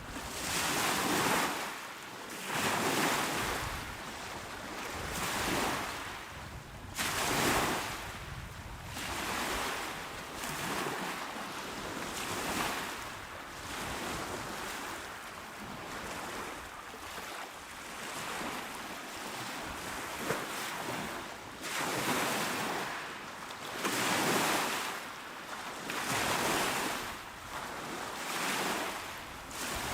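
Calm sea waves washing onto a shore, one swell of hiss every couple of seconds, breaking and fading back.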